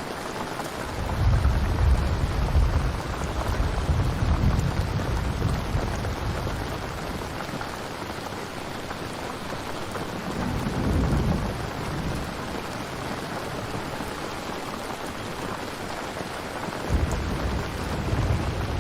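Steady rain falling, with rolling thunder rumbling low about a second in and lasting several seconds, a shorter rumble around the middle, and another starting abruptly near the end.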